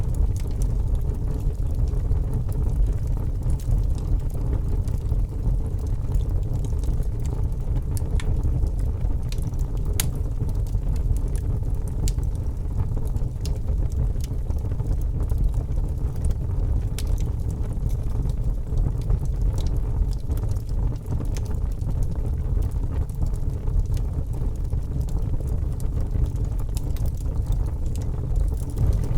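Wood logs burning in a fireplace: a steady low rumble of the fire with scattered sharp crackles, one louder pop about ten seconds in.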